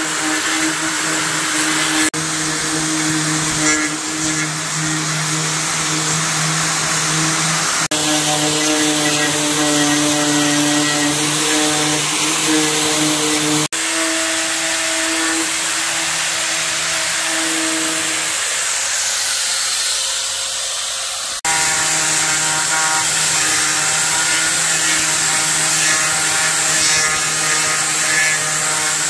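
A handheld electric power tool running steadily with a motor hum and a hiss of abrasion, in several short clips joined by abrupt cuts.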